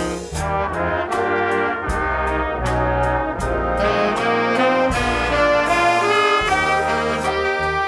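A band playing a jazz ballad: trumpets, trombones and saxophones carry sustained chords over a bass line, with a steady beat of sharp percussion strokes.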